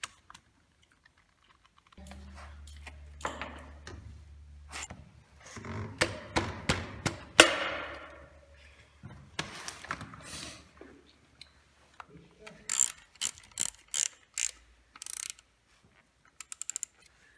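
Workshop handling noises: scattered mechanical clicks and scrapes over a low hum, then a quick run of ratcheting clicks near the end.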